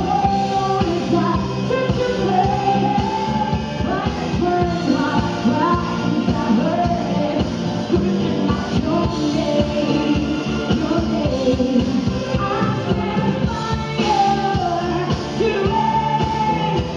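Live music: a female singer holding a wavering melody over a traditional orchestra playing together.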